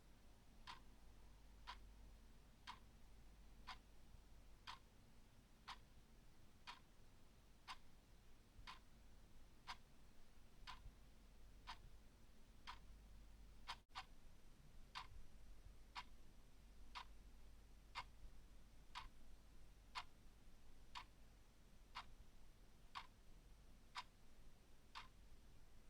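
Clock ticking faintly and evenly, about one tick a second. There is a momentary dropout about fourteen seconds in.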